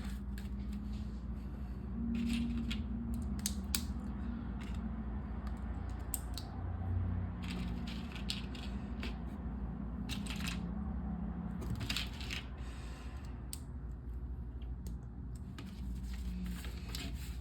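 Plastic LEGO pieces clicking and clattering as they are handled, sorted and snapped together, in scattered irregular clicks over a low steady hum.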